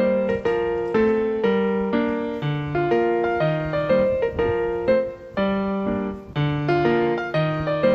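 Background piano music: a gentle melody of sustained notes over a low bass line, changing notes about twice a second.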